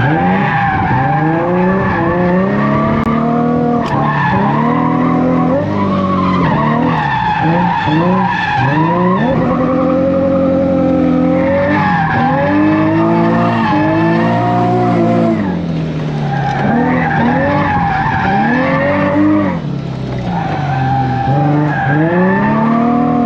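Nissan VQ V6 drift car driven hard through linked corners, the engine revving up and down over and over with the throttle while the tires skid and squeal.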